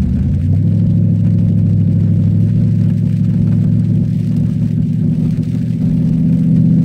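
Cadillac STS-V's supercharged V8 heard from inside the cabin, running under throttle at fairly steady revs, picking up slightly in pitch just after the start.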